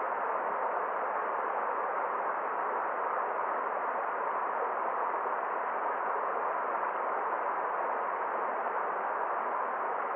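Forest stream's water rushing in a steady, even hiss with no splashes or changes.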